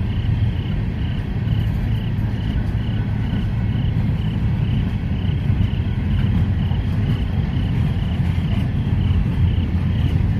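Freight train gondola and hopper cars rolling past, a steady low rumble of steel wheels on rail. Insects chirp over it in a regular high-pitched pulse, about two to three chirps a second.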